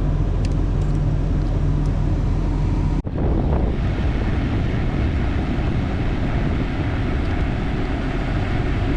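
Dodge Dakota pickup engine idling with the AC running on high after a refrigerant recharge. About three seconds in the sound cuts abruptly to a steadier rushing noise over the engine's low rumble.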